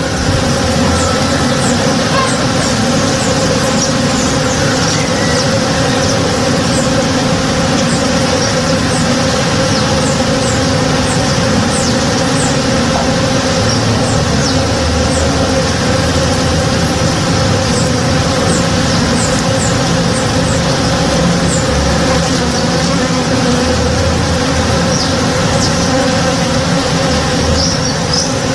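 Many honey bees foraging together: a dense, steady buzz of overlapping wing hums, with short high chirps recurring above it.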